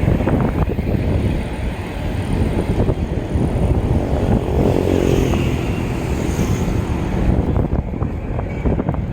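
Wind buffeting the microphone while riding a bicycle, with a motor vehicle's engine passing about halfway through.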